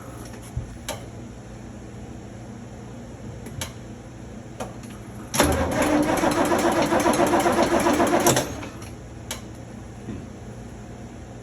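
A few sharp clicks, then the 1977 Toyota HJ45 Land Cruiser's starter cranking its cold engine in a fast, even rhythm for about three seconds. The cranking stops without the engine running on.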